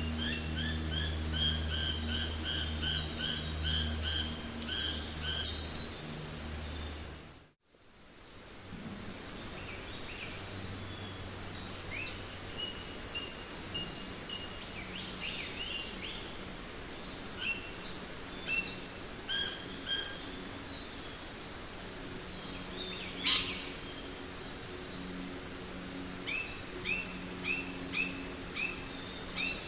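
Jungle ambience of several birds chirping and calling in quick repeated notes over a faint steady background. It cuts out to near silence for a moment about a quarter of the way in, then the calls resume. One sharp call stands out near the three-quarter mark.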